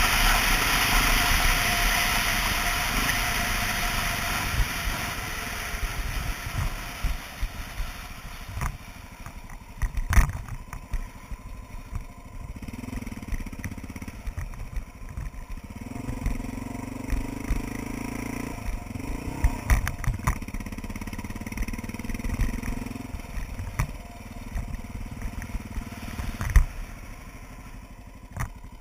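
2002 Honda XR650L single-cylinder dual-sport motorcycle slowing down: the engine and wind noise fade over the first several seconds. It then runs low and quiet, with scattered knocks and clatter and a brief rise in engine note in the middle.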